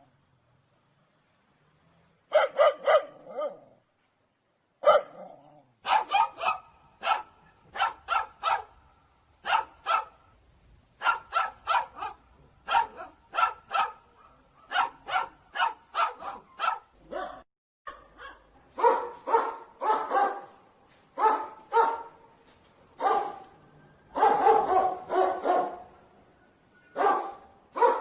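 Dog barking loudly in quick runs of sharp barks. A brief burst comes after about two seconds of silence, and from about five seconds in the barking is nearly continuous, growing denser toward the end.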